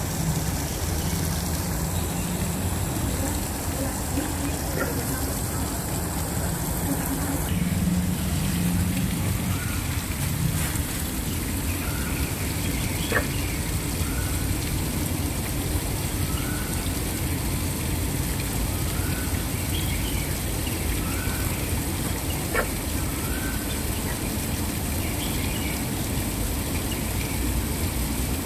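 Waterfall rushing steadily. Through the middle of the stretch a bird repeats a short rising call about every second and a half.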